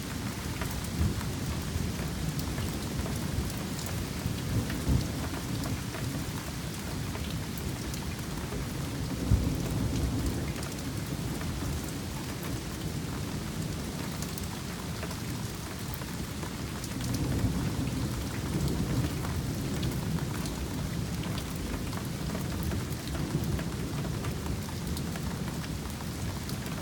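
Thunderstorm: steady rain falling, with many drops ticking on a nearby surface, over low rolls of thunder that swell around ten seconds in and again from about seventeen seconds in.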